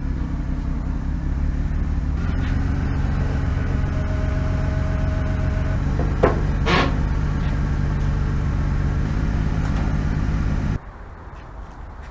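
An engine running steadily, with a couple of sharp knocks about six seconds in; the engine sound cuts off abruptly near the end.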